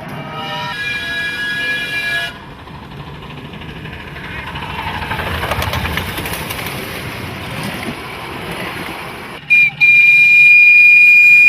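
Miniature locomotive whistles. A multi-note chime whistle sounds for about two seconds at the start, then a rushing noise follows, and a loud, high single-note whistle starts near the end and holds.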